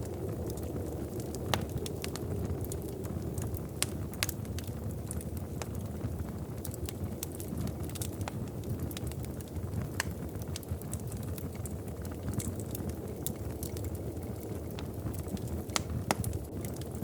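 Wood fire crackling in a fireplace: frequent small sharp pops and snaps over a steady low rumble.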